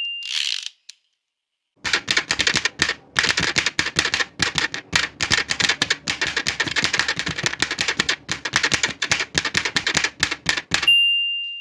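Old manual typewriter. A bell ring dies away right at the start, followed by a short swish of the carriage return and about a second of silence. Then come about nine seconds of rapid keystrokes, and the margin bell rings again near the end.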